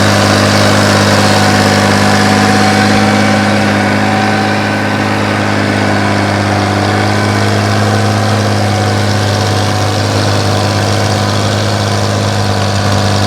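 Antique farm tractor engine running steadily while pulling a multi-row plow.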